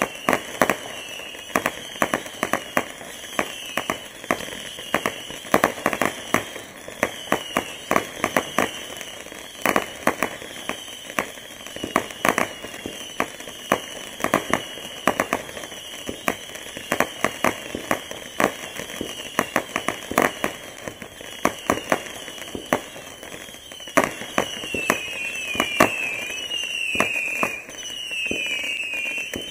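Star-Spangled Saturn 440-shot saturn missile battery firing a rapid stream of small whistling missiles. A high, wavering whistle sits over sharp pops and cracks several times a second. Near the end the whistles grow louder and dip in pitch as the pops thin out.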